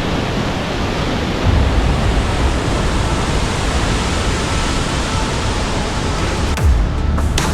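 Waterfall rushing in a steady, even roar of falling water. A few sharp hits come in near the end.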